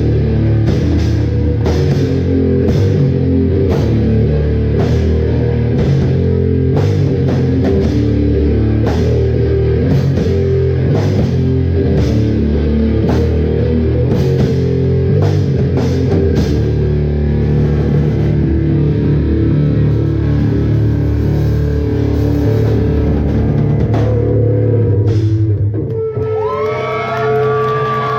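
Live rock band playing loud and heavy: distorted electric guitar, bass and a drum kit pounding out a steady beat. About 26 seconds in the drums drop out, leaving guitar notes ringing and bending.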